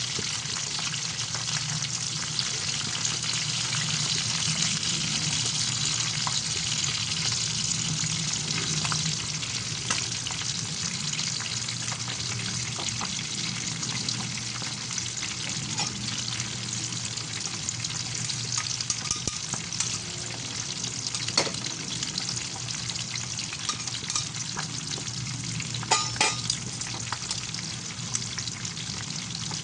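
Bangus (milkfish) frying in hot oil: a steady, dense sizzle and crackle of spattering oil, with a few sharp clicks near the end.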